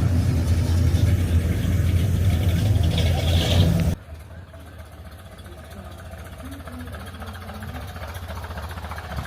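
A car engine running steadily close by with a low rumble, which cuts off abruptly about four seconds in, leaving faint, quiet outdoor background sound.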